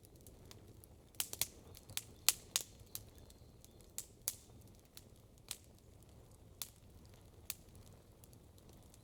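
Campfire crackling: a quick run of sharp pops in the first few seconds, then single pops about once a second, over a faint low background hiss.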